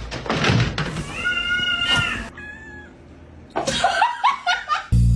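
A domestic cat meowing: one long, steady meow about a second in, then several short rising calls near the end.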